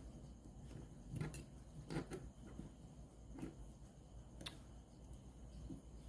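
Faint handling sounds: a few scattered clicks and light knocks over a low steady hum.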